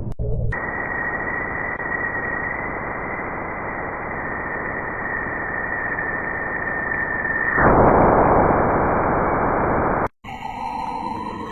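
Radio-style static: a steady hiss with a thin high tone held through it. About two-thirds of the way in, the tone stops and the hiss gets louder. A brief dropout near the end gives way to a different recording with gliding, wavering tones.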